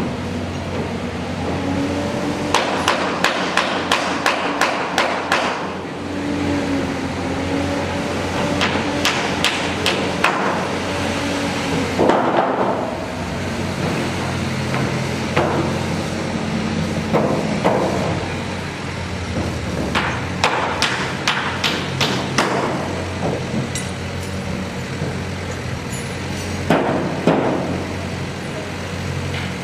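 Bursts of hammer blows, several strikes at about three a second at a time, over the steady hum of running construction machinery.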